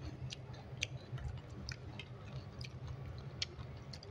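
Close-up eating sounds: chewing, with scattered sharp clicks and crunches at irregular intervals over a low steady hum.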